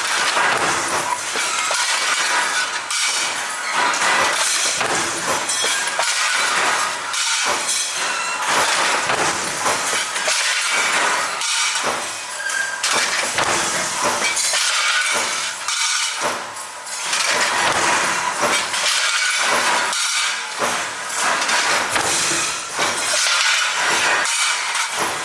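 Continuous dense clinking and clattering of small metal parts in garage-door-hinge production, with many sharp clicks and knocks.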